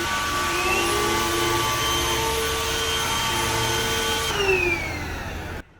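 Cordless stick vacuum cleaner running with a steady motor whine. Near the end its pitch slides down, and then it cuts off suddenly.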